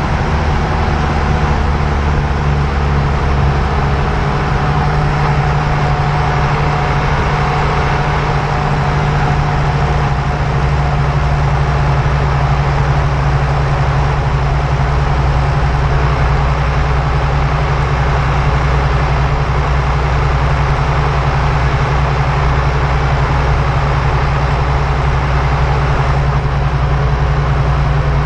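Steady running noise of an old car on the move, heard from underneath at the suspension: tyres rolling on the road with a low drone from the drivetrain.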